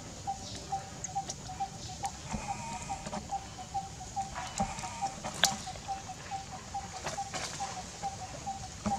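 A bird calling one short note over and over, evenly, about three times a second. A sharp click stands out about five and a half seconds in.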